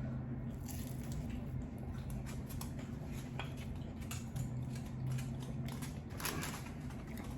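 Close-miked chewing and mouth sounds of someone eating lo mein noodles: many small wet clicks and smacks, with one louder noisy mouth sound about six seconds in. A steady low hum runs underneath.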